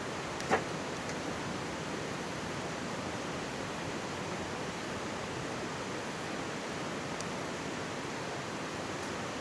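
Steady rushing of a mountain stream close by, with a wood campfire crackling: one sharp pop about half a second in and a fainter one later.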